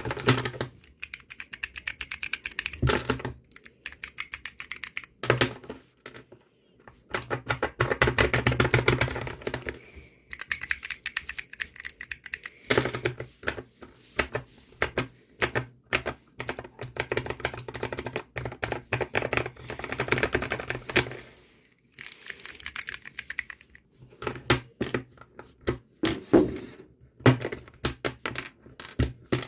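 Mechanical keycaps on switches being pressed rapidly by fingers, a fast clatter of clicks in bursts of a few seconds with short pauses between them.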